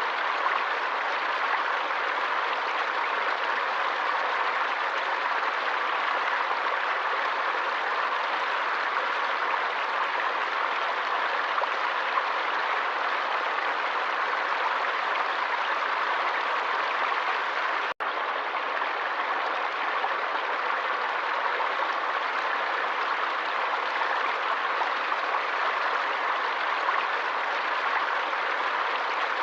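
Steady rush of a forest stream's running water, cutting out for an instant about two-thirds of the way through.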